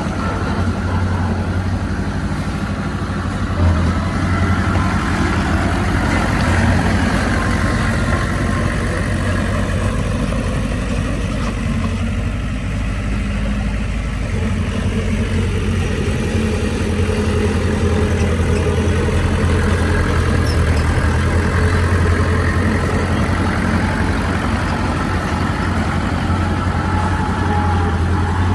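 Bulldozer's heavy diesel engine running steadily while it works, with a deep, even drone and a higher note that drifts up and down a little.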